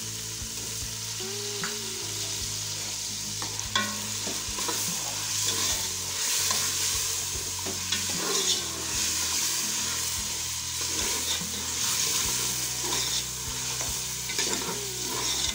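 Chopped tomatoes sizzling in hot oil, just added to a fried onion masala in a metal pot, while a steel ladle stirs and scrapes through them. A sharp knock about four seconds in stands out above the steady sizzle.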